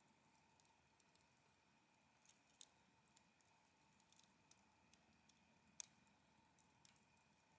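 Campfire wood crackling faintly: sparse, irregular small pops, the loudest about six seconds in.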